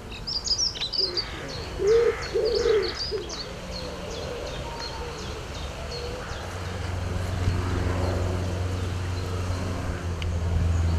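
Birdsong: a small bird gives a rapid run of high chirps while a pigeon coos a few low notes. A low steady hum swells in the second half.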